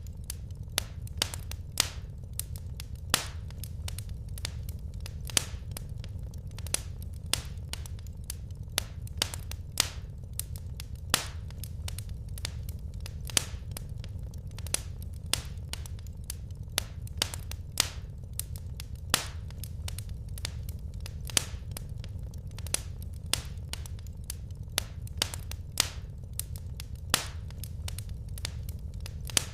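Wood fire crackling in a fireplace: irregular sharp pops and snaps, a few a second, some louder than the rest, over a steady low rumble.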